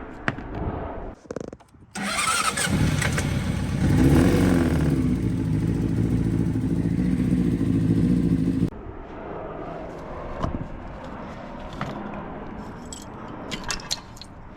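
2006 Honda CBR600RR inline-four engine starting and running for about six seconds with a connecting rod broken. It cuts off suddenly, and light clicks and clatter follow.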